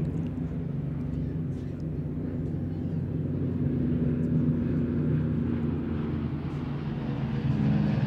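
Piston engines of propeller aircraft from the Battle of Britain Memorial Flight giving a steady, low drone that grows a little louder.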